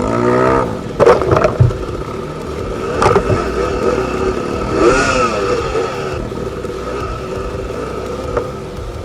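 Off-road dirt bike engine revving up and down, with sharp clattering knocks about a second in and again about three seconds in.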